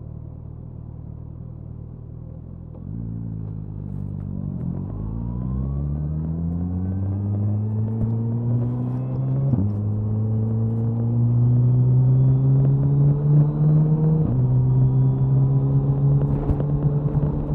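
Suzuki Hayabusa's inline-four engine and exhaust, heard from near the tail while riding. It holds a steady low note for about three seconds, then gets louder as the throttle opens and the pitch climbs. The pitch drops sharply at two upshifts, about ten and fourteen seconds in, then climbs again after each.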